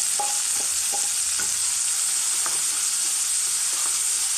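Freshly added soaked chana dal (Bengal gram) sizzling in hot oil in a non-stick kadai, a steady hiss, with a wooden spatula scraping and stirring through it in a few short strokes.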